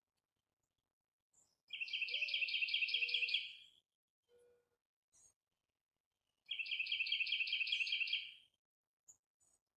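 A songbird singing two trilled phrases, each about two seconds of quickly repeated notes at roughly six notes a second, the second phrase about four and a half seconds after the first. A few faint short calls come in between.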